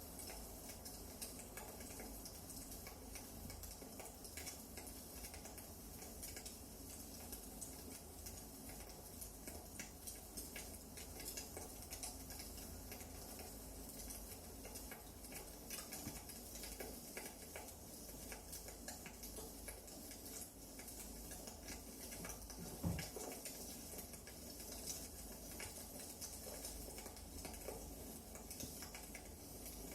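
Wood fire burning in a fireplace, crackling steadily with many small snaps and one louder pop about three quarters of the way through.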